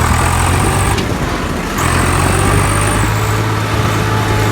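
Tractor diesel engine running steadily, with a low hum that drops out for under a second about a second in and then comes back.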